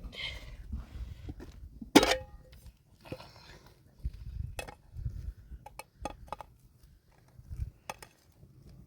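A sharp metallic clink about two seconds in that rings on briefly in a few clear tones, followed by scattered light clicks and knocks.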